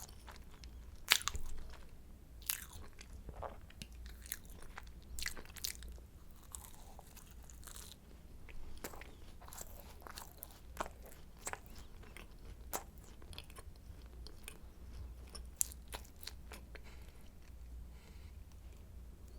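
A person biting and chewing croissant close to the microphone, the flaky pastry giving sharp, crisp crackles and crunches. They come thickly in the first half and grow more scattered towards the end.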